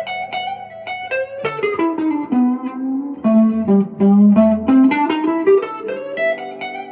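Electric guitar playing a blues lead phrase in the minor pentatonic scale, mixing the minor and major third: single picked notes that run down and back up, with some notes bent or slid.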